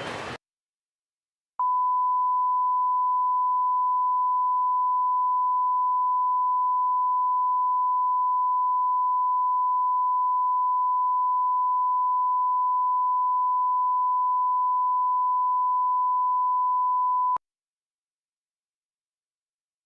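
Broadcast reference test tone: one steady, pure, high-pitched beep at a single pitch that starts a second and a half in and holds unchanged for about sixteen seconds before cutting off sharply, with dead silence on either side.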